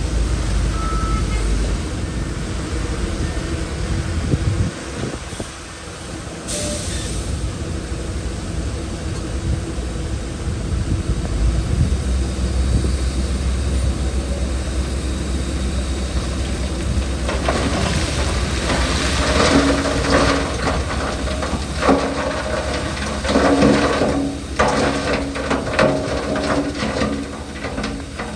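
Heavy diesel earthmoving machinery running with a deep, steady rumble and a brief hiss a few seconds in. From about halfway through, loose rock and dirt clatter and scrape as material is pushed or dumped.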